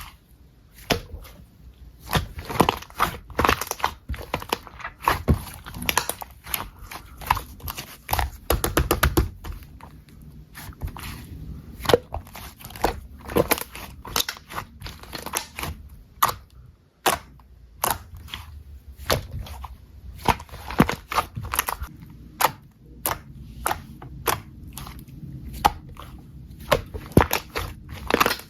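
Slime being squeezed and pressed by hand, giving irregular sharp clicks and pops. A quick run of crackling pops comes about eight to nine seconds in.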